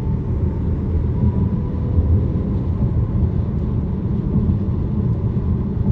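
Steady road and engine rumble heard from inside a moving vehicle's cabin, deep and even, with a faint steady whine above it.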